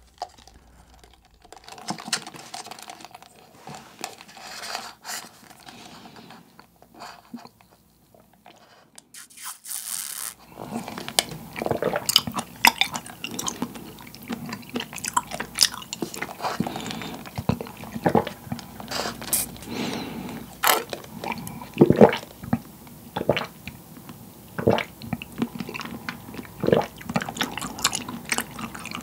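A wide bubble-tea straw sucking up mango green milk tea, and close-up, wet chewing of the chewy tapioca and coconut pearls, with many short smacks and clicks. It starts after about ten mostly quiet seconds.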